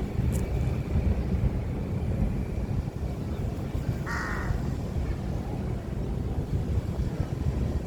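A steady low rumble, with a single short, harsh bird call about four seconds in.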